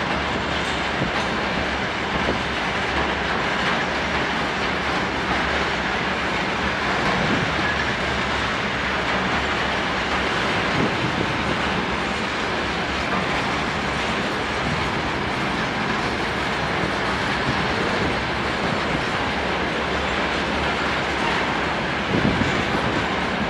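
Freight train of rail tank wagons rolling past at low speed: a steady rumble of steel wheels on the rails. The sound grows a little louder near the end.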